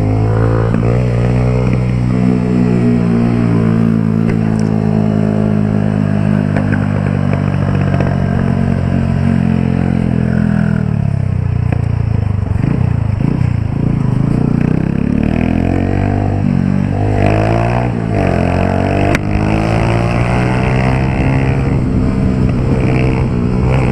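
Honda Titan 150's carburetted single-cylinder four-stroke engine running through a Pro Tork aftermarket exhaust while riding. The note holds steady, dips near the middle, then climbs several times as the bike accelerates.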